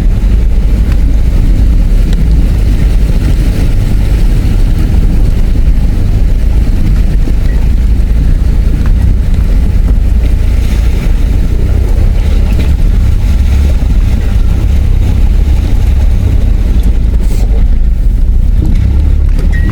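Four-wheel-drive vehicle driving slowly up a shallow river crossing: a steady low engine and drivetrain rumble with water washing around the wheels.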